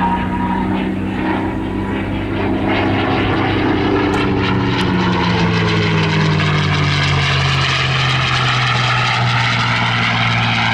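P-51D Mustang's Merlin V12 piston engine flying past, its pitch dropping between about four and seven seconds in as the aircraft passes.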